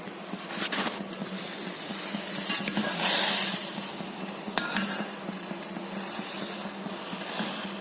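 A spoon stirring and scraping in a pot of hot milk that is curdling with vinegar to make paneer, with occasional clinks of the spoon against the pot, over a steady low hum.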